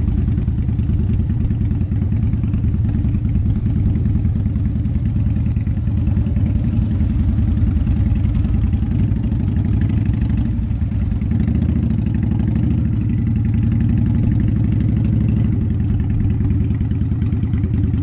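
Motorcycle engine idling steadily with a low, rapid exhaust pulse.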